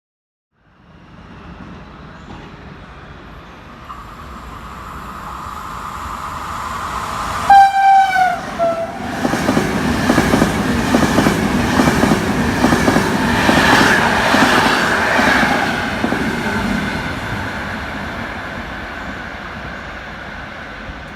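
A train approaching through a station sounds its horn in two short blasts, the second a little lower. It then passes at speed with loud wheel-on-rail clatter and fades away.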